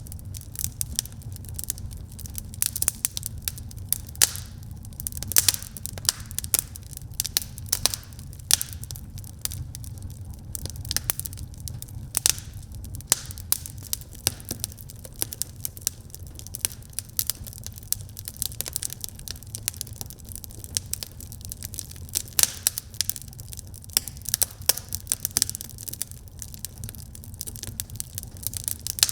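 Wood fire burning in a fireplace: dense, irregular crackling and popping over a steady low rumble of flame.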